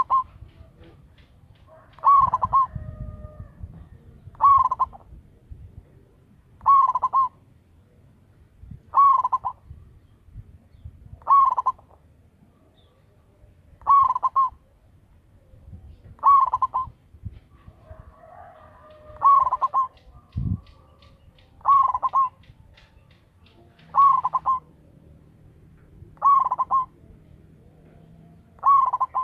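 A zebra dove (perkutut) singing its cooing call: short phrases of about half a second, repeated steadily about every two seconds.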